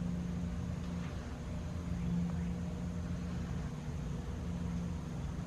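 Steady low mechanical hum with one held tone and a rumble underneath.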